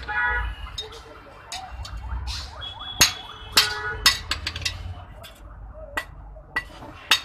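Hammer blows on iron at the anvil during hand-forging of a knife, sharp metallic strikes at an irregular pace. A brief pitched ringing tone sounds twice, near the start and about three seconds in.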